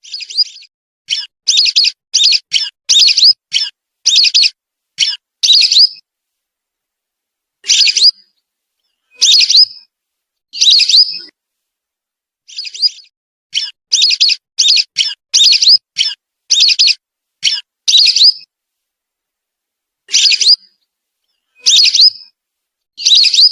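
Lesser whistling ducks giving short, high whistled calls, a recording made for luring the birds. The calls come in quick runs of several at the start and again in the middle, with single calls spaced a second or two apart between them and dead silence in the gaps.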